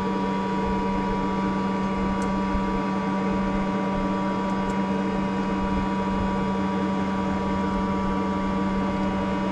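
Boat engine running at a steady speed, a constant hum with one low tone and several even higher tones that do not change.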